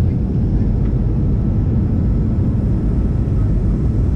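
Steady engine and airflow noise inside an airliner cabin in flight: a continuous low rumble with a faint thin tone running through it.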